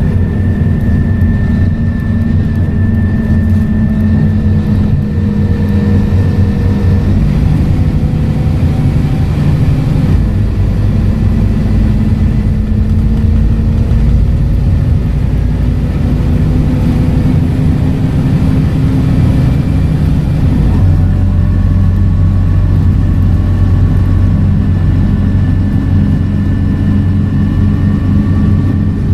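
Scania K230UB single-decker bus with its five-cylinder diesel engine and ZF automatic gearbox running under way, a steady loud drone with a higher whine above it. The engine note changes sharply about a third of the way in and again about two-thirds of the way in.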